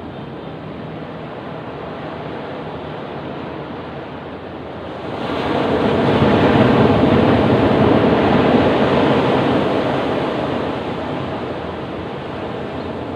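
Ocean waves rumbling on a beach: a wave surges in about five seconds in, stays loudest for several seconds, then washes back out to the steady surf.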